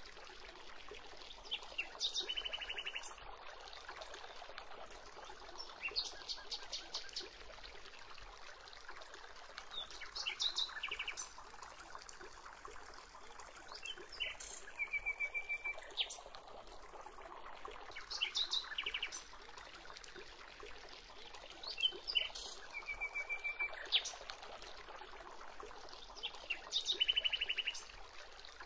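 Birds calling: short chirping trills of quick, evenly spaced notes that repeat about every four seconds, over a faint steady background.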